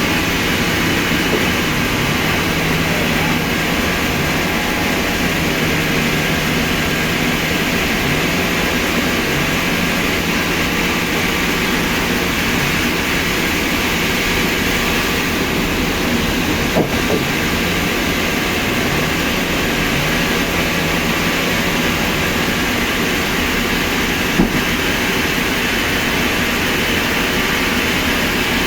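Heavy machinery running steadily without a break, with two short sharp knocks, one a little past halfway and one near the end.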